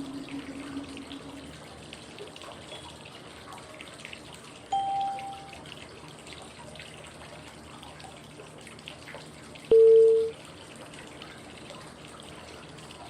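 Steady running-water white noise with a short, clear prompt tone about every five seconds: a low tone fading at the start, a higher one about five seconds in, and a middle one about ten seconds in. The tones are cues marking the phases of 5-5-5 breathing.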